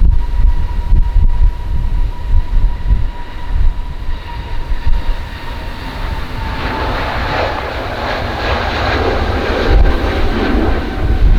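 Jet airliner's engines passing close: a steady whine that sinks slowly in pitch, joined about six seconds in by a growing jet roar. Gusty wind buffets the microphone with a heavy rumble throughout.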